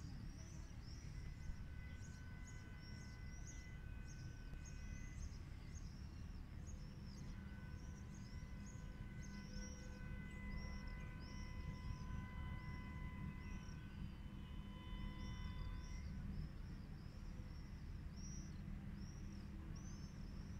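Birds chirping in short, high, arching notes, about two a second, over a low steady city rumble. A faint steady tone sounds for several seconds in the middle.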